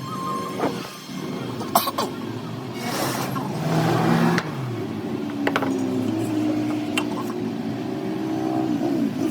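An engine running, its pitch stepping up and down several times, with a few sharp knocks over it.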